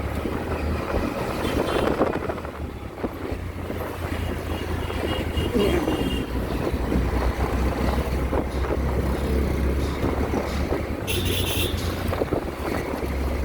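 Auto-rickshaw's small engine running steadily while riding through traffic, with wind buffeting the microphone. A short horn honk sounds about eleven seconds in.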